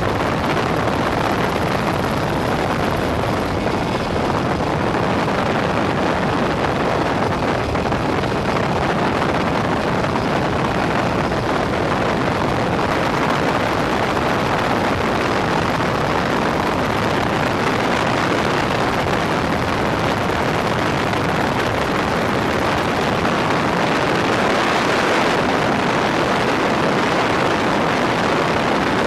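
Helicopter in flight: a loud, steady rush of engine and rotor noise.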